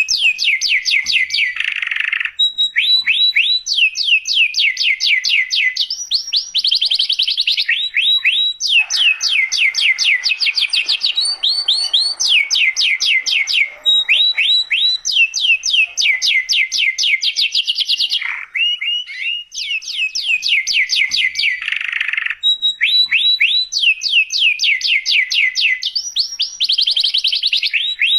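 Domestic canary in full, vigorous song: a long, unbroken run of rapid trills, each made of fast repeated notes sweeping downward in pitch, moving from one trill to the next every second or two.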